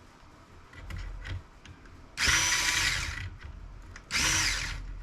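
Cordless power screwdriver or drill backing screws out of a laptop's case, in two short runs. Each run spins up to a whine and winds down.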